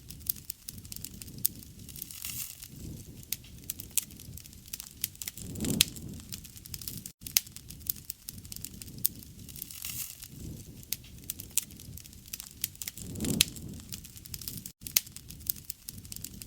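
Wood campfire crackling and popping steadily, with sharp snaps over a soft low rumble of flame that swells twice. The sound cuts out for an instant twice, about seven seconds in and near the end.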